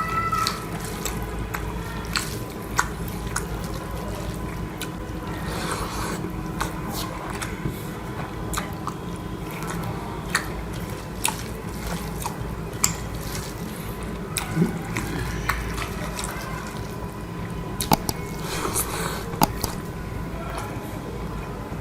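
Wet eating sounds of egg curry and white rice: squishy chewing and sharp mouth clicks at irregular intervals, over a faint steady tone.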